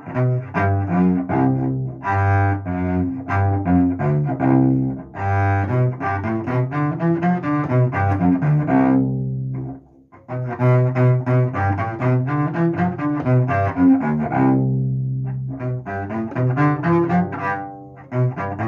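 Solo cello played with the bow by a beginner practising dynamics: a run of separate notes in phrases, one phrase tapering off about halfway with a brief pause before the playing resumes, and another fading away near the end.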